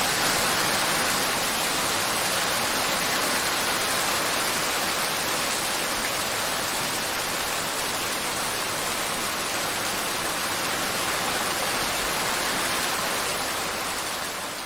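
Steady rain pouring down, an even hiss that starts fading out near the end.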